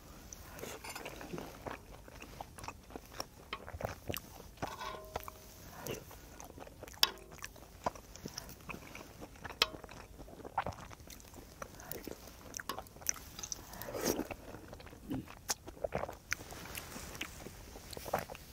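Close-up eating sounds: chewing tteokbokki rice cakes and ramyeon noodles, with scattered small clicks and mouth smacks and metal chopsticks touching the pan.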